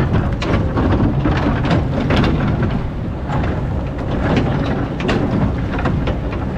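Excavator's diesel engine running steadily under load, with irregular clacks and scraping over it.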